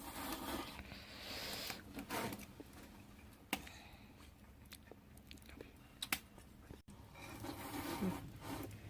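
People eating freshly cooked ramen: faint chewing and eating noises, with a few sharp clicks of utensils.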